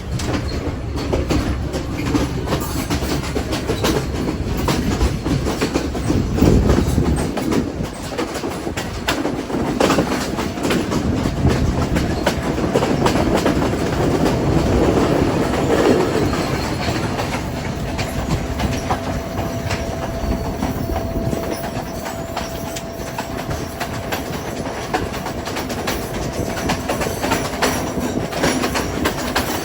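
A train running along the track: wheels clacking over the rail joints and the carriages rattling steadily. A faint steady whine joins about halfway through.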